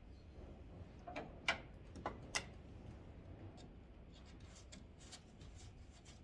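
Scattered small clicks and taps of a flathead screwdriver prying pop-rivet fasteners out of the plastic top cover over a 1991 Ford Ranger's headlights. Four sharper clicks come between about one and two and a half seconds in, then lighter ticks.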